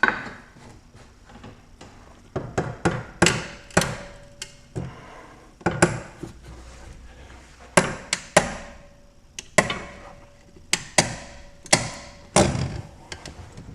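Hammer blows on steel suspension parts, struck irregularly about twenty times, several with a brief metallic ring, to free a part that is stuck fast.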